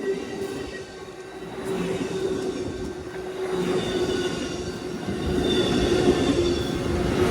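Train approaching, its rumble growing steadily louder, with high steady tones from the wheels squealing on the rails.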